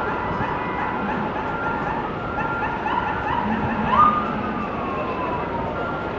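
Emergency vehicle sirens sounding, with steady high tones and a long falling wail about four seconds in.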